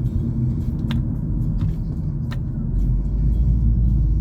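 Car road and engine noise heard inside the cabin while driving: a steady low rumble that gets heavier about three seconds in, with a few faint ticks.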